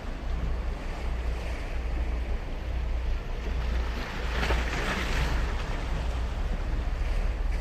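Ocean waves breaking and washing on the beach, with a louder surge of surf about four and a half seconds in. Wind rumbles on the microphone underneath.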